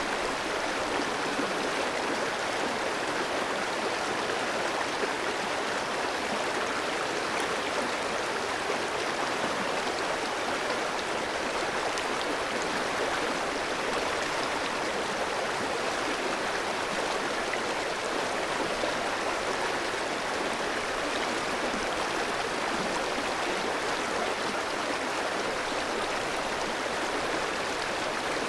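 Clear stream flowing over rocks, a steady, even rush and babble of water.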